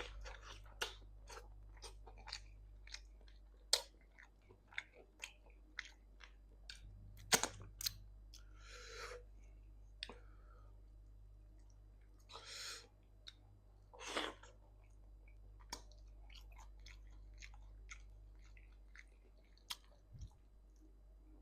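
A person chewing a mouthful of vegetable soup at close range, with many short wet mouth clicks and smacks and a few longer noisy bursts of breath or slurping.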